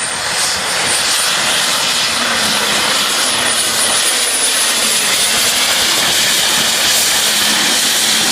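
Diesel pulling tractor's engine running loud and steady, with a thin high whine from its turbocharger.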